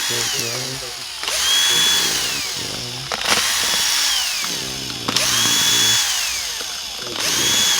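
Cordless electric screwdriver run in short bursts, about five times: each time the motor whine climbs, holds for about a second and falls away as the trigger is released.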